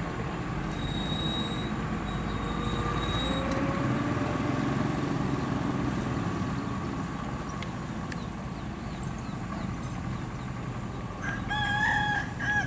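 Steady low rumble of a passing truck's engine and tyres, with a droning tone that slides up in pitch about three seconds in. Near the end a rooster crows once, briefly and loudly.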